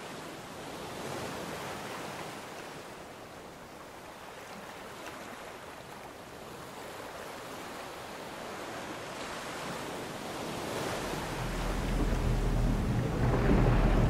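Wind and water noise on an open boat: a steady rushing hiss. It grows louder, and a low rumble comes in over the last few seconds.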